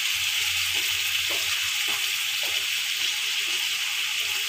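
Chicken pieces frying in hot oil with onions, garlic, ginger and spices in an aluminium pot: a steady sizzling hiss, with a few faint spatula scrapes.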